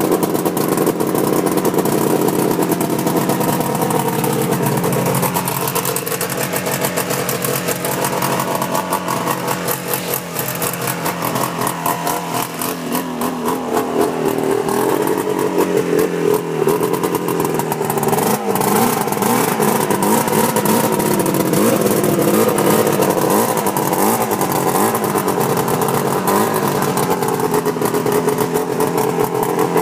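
1988 Ski-Doo Safari 377 snowmobile's two-stroke engine running. Its pitch wavers up and down in the second half.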